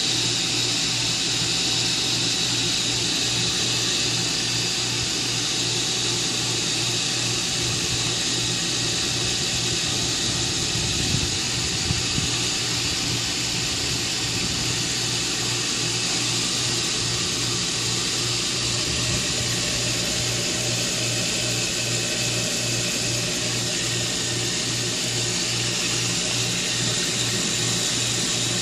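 Pool pump running steadily with a low hum.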